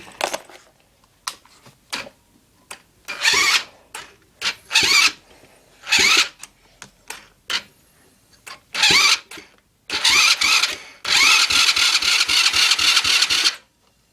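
A 90cc quad bike's engine being cranked over by its electric starter in about six short bursts, the last one the longest at roughly two and a half seconds, without settling into a steady idle. The bike has been crashed into a stream and will not start properly.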